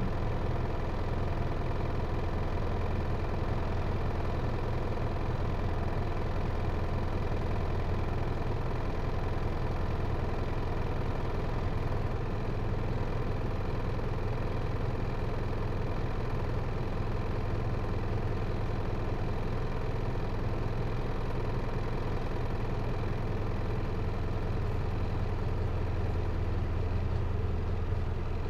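Hino Liesse microbus's J05C four-cylinder diesel engine running steadily at low revs, heard from inside the passenger cabin, with a deep even hum and no change in engine speed.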